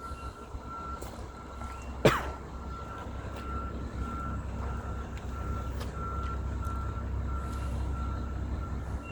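An electronic alarm beeps steadily, repeating about every two-thirds of a second over a low rumble. A single sharp knock comes about two seconds in.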